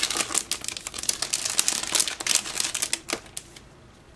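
Crinkling and rustling of a clear plastic package as an artist trading card is pulled out of it, a rapid run of crackles that stops about three and a half seconds in.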